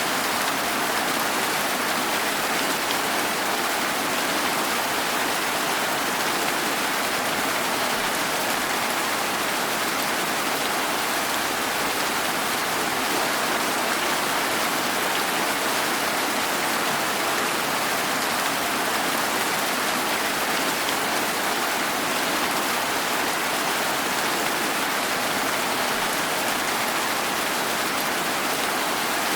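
Steady rain falling, an even hiss of drops on a surface with no change in strength.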